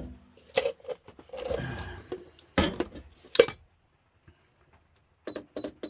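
Pieces of aluminium scrap clattering and knocking as they are handled and set down, with the two loudest knocks about two and a half and three and a half seconds in. A few short clicks with a high beep come near the end.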